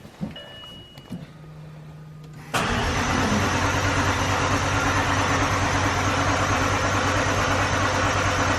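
A brief electronic chime and a low hum. Then, about two and a half seconds in, a McLaren's engine is cranked on a battery boosted by a jump pack: a loud, steady sound that holds for about six seconds. It is a failed start attempt.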